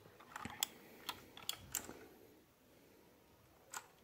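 A few separate sharp clicks from an RK61 mechanical keyboard with clicky blue switches: about six spread over the first two seconds, then one more near the end.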